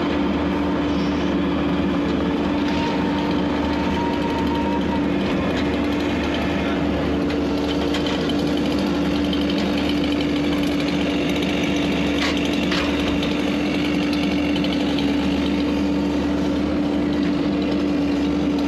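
Engine of a piece of heavy equipment running steadily at constant revs, its note holding one pitch throughout.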